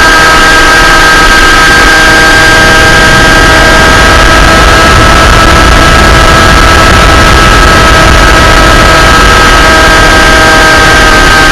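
Motor of the aircraft carrying the camera, running at a constant speed in flight. It is a loud, steady drone with several unchanging whining tones over heavy wind noise.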